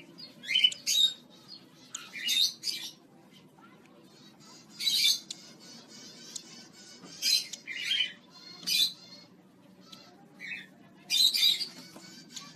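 Pet parrot squawking: a string of short, harsh, high-pitched calls, about one every second or two, some in quick pairs.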